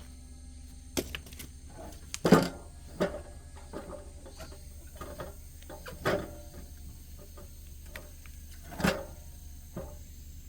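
Scattered light knocks and clunks, about half a dozen at irregular times, the strongest about two seconds in, over a low steady hum; the saw is not running.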